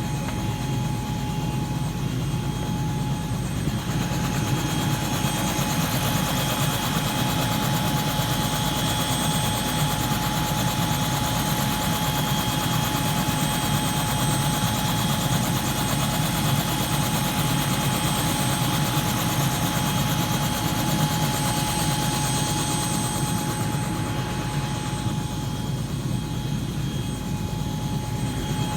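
Helicopter's rotor and turbine running steadily, with a constant high whine. The rushing noise grows stronger a few seconds in and eases off again near the end.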